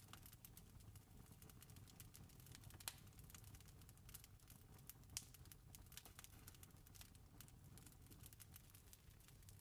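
Campfire crackling faintly: a steady scatter of small crackles, with two sharper pops about three and five seconds in, over a low steady rumble.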